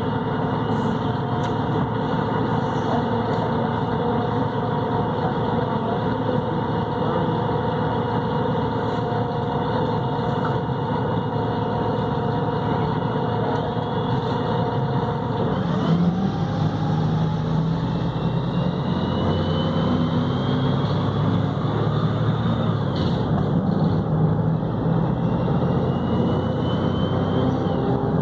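Volvo B7RLE city bus's six-cylinder diesel running with a Voith automatic gearbox. It runs steadily at first, then pulls away about halfway through, with the engine note strengthening and a rising transmission whine repeating as it works up through the gears.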